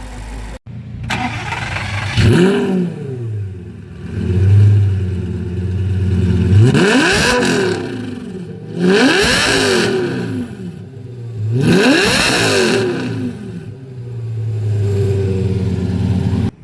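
Car engine revved hard about four times, each rev rising and falling in pitch, with the engine idling between them.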